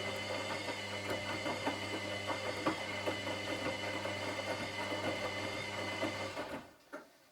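Washing machine running with a steady motor hum and a high whine, and irregular knocks from the turning drum. The motor stops a little over six seconds in, and one click follows about a second later.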